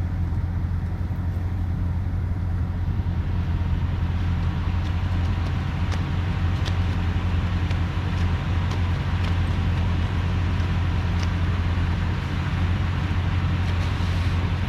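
A concrete mixer truck's engine running steadily, a constant low drone, with a few faint light clicks.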